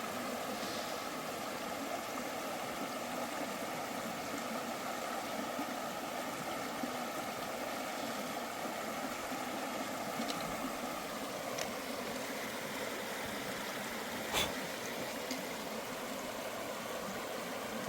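Steady rush of flowing stream water, with one sharp click about fourteen seconds in.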